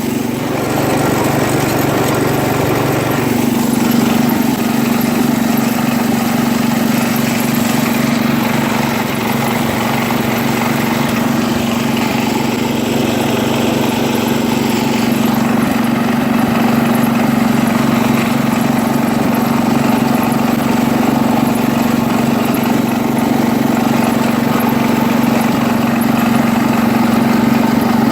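Engine of a 1973 International Harvester Cub Cadet 86 garden tractor running at a steady speed while the tractor is driven.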